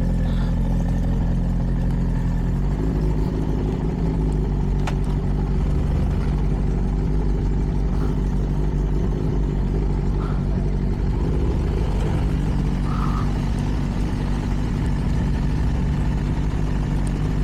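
CFMoto 300NK's single-cylinder engine through its stock exhaust, running at a steady pitch with no rev sweeps; the pitch shifts slightly about two to three seconds in.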